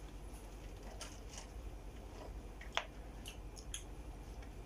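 Faint chewing and mouth sounds of people eating donuts, with a few small clicks and one sharper click a little before three seconds in.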